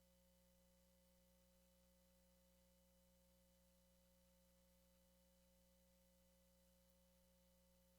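Near silence: a faint, unchanging electrical hum and hiss with no other sound.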